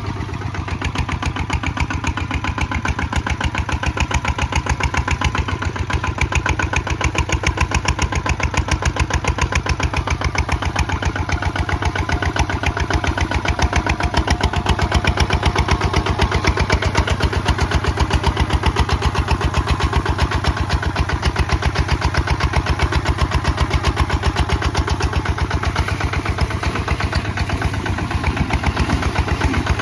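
Kubota ZT155 DI single-cylinder diesel engine of a walk-behind tractor running steadily, a fast even chugging of firing pulses, as it works pulling a plow.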